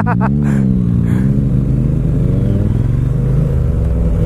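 Motorbike engine revving up under acceleration. Its pitch rises and dips in the first second, then climbs gradually and holds steady.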